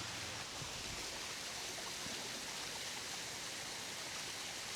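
Small creek waterfall, water falling and rushing in a steady wash.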